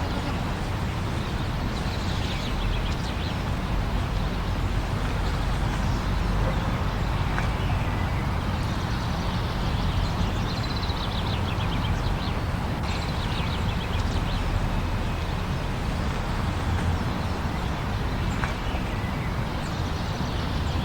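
Steady blizzard wind with a deep rumble, unbroken throughout. Faint high chirping sounds come through a few times.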